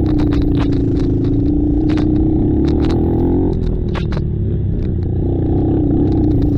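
ATV engines running hard, the main engine pitch held steady, dropping suddenly about halfway through and climbing back near the end, with scattered sharp clicks and knocks.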